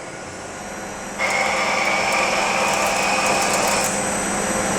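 Daewoo Puma 200 CNC lathe starting its cycle on aluminum bar stock: about a second in, a steady whine and hiss start suddenly as the machine begins turning the part. The whine drops out near the end.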